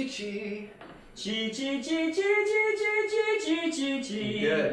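A singer runs quick repeated "chi" syllables up and down a scale, a vocal exercise for keeping the voice steady under unvoiced consonants. There is a short break for breath about a second in, then a second run.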